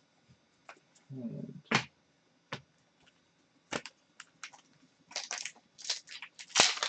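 Trading cards being handled: a few sharp clicks of cards, then from about five seconds in a foil card-pack wrapper being crinkled and torn open, a dense run of crackling and rustling.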